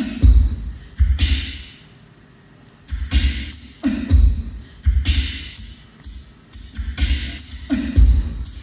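Rock drum kit playing the opening beat of a song: kick drum thuds with snare and cymbal hits. The drums break off about two seconds in, then come back in a steady rhythm.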